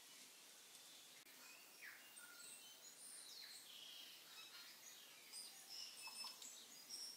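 Faint birds chirping in the background: scattered short, high chirps and whistles, some sliding down in pitch, over a quiet hiss.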